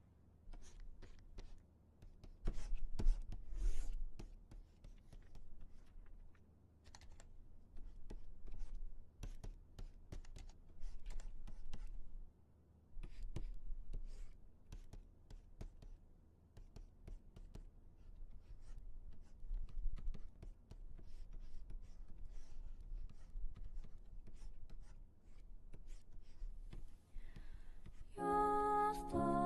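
Irregular light clicking and scratching, close and dry, over a low rumble. Soft music with a clear melody begins near the end.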